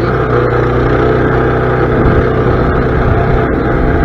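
A mini bike's small gas engine running steadily at a fairly constant speed, loud and close, with no clear rise or fall in pitch.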